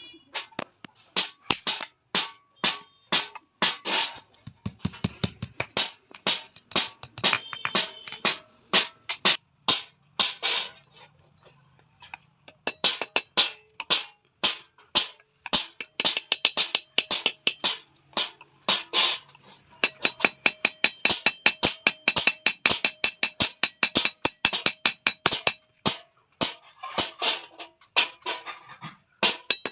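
Hand hammer striking steel on an anvil, a long run of sharp blows about two to three a second with short pauses, some blows leaving a ringing note.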